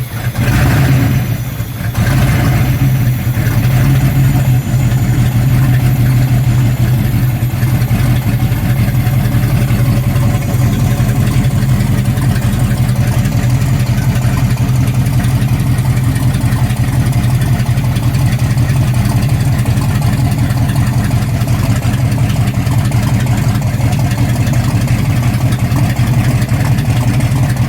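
The 426 cross-ram V8 of a 1963 Plymouth super stock drag car, just started. It revs up a couple of times in the first two seconds, then runs at a loud, steady idle.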